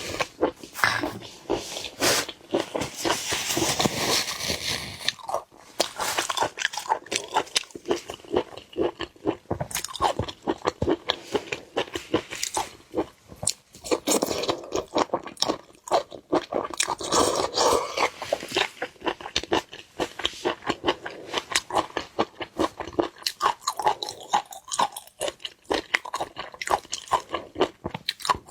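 Close-miked eating of seafood: a steady run of irregular wet crunches, bites and chewing smacks.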